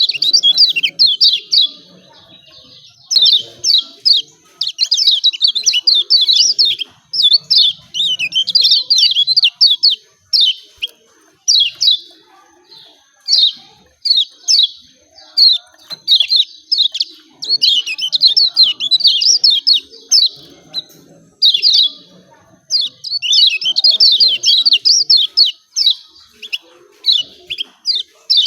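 Lemon-bellied white-eye (kecial kuning) giving its rapid 'ciak ciak' chip calls: bursts of fast, sharp, high notes, repeated phrase after phrase with short pauses between.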